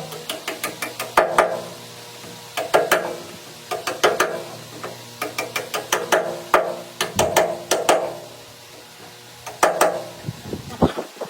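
Bursts of rapid mechanical clicking with short metallic knocks, coming in runs about a second apart, typical of hand-tool work on metal machine parts.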